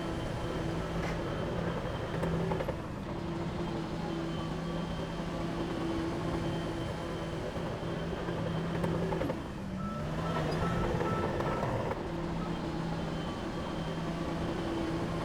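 Heavy diesel engine of earthmoving machinery running steadily under load. Its pitch dips briefly and recovers about two-thirds of the way through, and a short run of high electronic beeps, like a reversing alarm, sounds just after.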